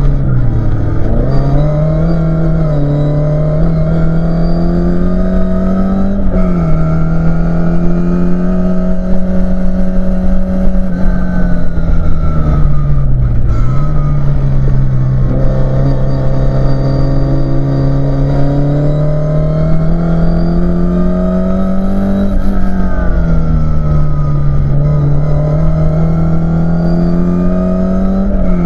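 Mk2 Ford Escort RS2000's four-cylinder race engine heard from inside the cabin at racing speed, held at high revs. Its pitch climbs slowly under load and drops sharply a few times, about a second in, around six seconds, about thirteen seconds and at the very end, as it changes gear and lifts off for corners.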